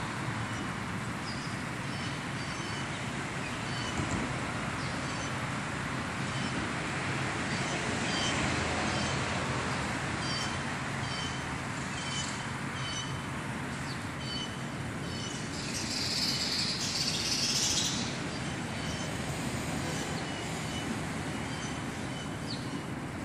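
Small birds chirping in short, repeated calls over a steady hiss of open-air background noise, with a louder high-pitched burst about two-thirds of the way through.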